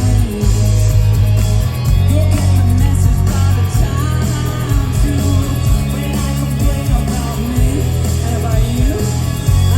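Live rock band playing, heard through a phone recording from the crowd: loud electric guitars, heavy bass and drums, with a woman's voice singing.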